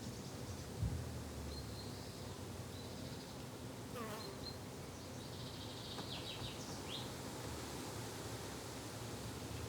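Insects buzzing steadily in a low drone, with a few short high bird chirps and a quick run of chirps in the middle. A brief low thump comes just under a second in.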